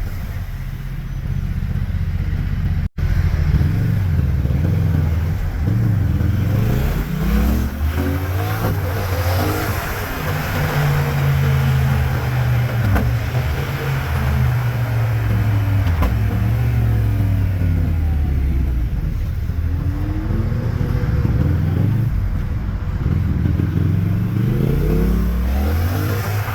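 Yamaha MT-07's 689 cc parallel-twin engine through a LeoVince underbody exhaust, pulling up through the revs and dropping back several times as the bike rides through town, over a steady hiss of wind and road noise. The sound cuts out for an instant about three seconds in.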